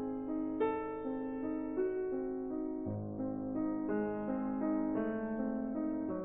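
Slow, gentle background music played on piano or electric piano, its notes held and overlapping as the melody moves on every half second or so.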